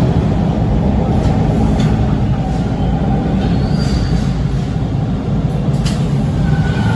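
Interior noise of a Toronto subway T1 train car: a steady, loud low rumble with a few light clicks. A thin high tone appears briefly about halfway through, and another begins near the end.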